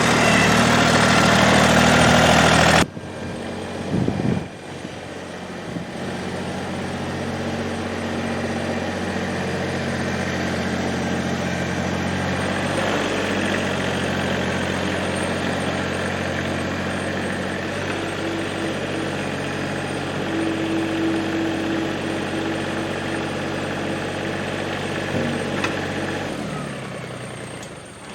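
Massey Ferguson GC2300 sub-compact tractor's diesel engine running steadily, with a clunk about four seconds in, then shut off near the end.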